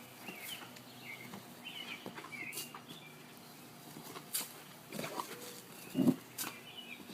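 Animal sounds: a few short low noises, the loudest about six seconds in, with high chirps in the background during the first few seconds.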